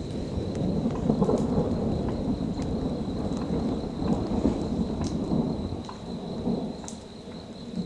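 Rolling thunder: a low, deep rumble that swells at the start, holds for several seconds and dies away near the end, with a few scattered raindrop ticks.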